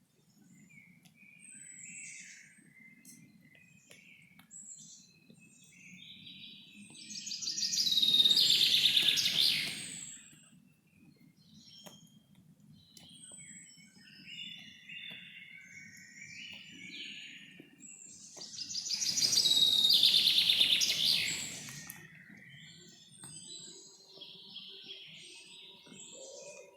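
Forest birdsong: scattered chirps and short calls from several birds, with one loud, fast trilled song twice, about eight and about nineteen seconds in, over a faint steady low background.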